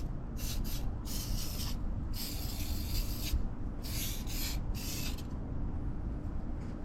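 Rubbing and scrubbing strokes on engine-bay plastic trim during cleaning, about five strokes of up to a second each, stopping after about five seconds.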